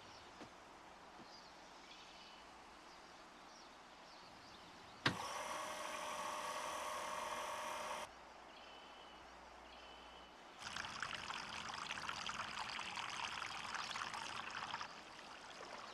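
Water pouring and splashing into a small backyard pond, in two stretches that start and stop abruptly: the first about five seconds in, smoother, for about three seconds; the second rougher, from about ten seconds in to near the end. Faint short chirps in the quiet gaps between.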